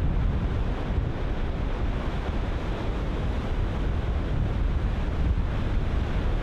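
Ocean surf breaking continuously, with wind buffeting the microphone as a steady low rumble.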